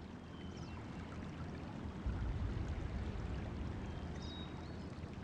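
Spring water flowing steadily over tufa terraces, a soft, even trickle.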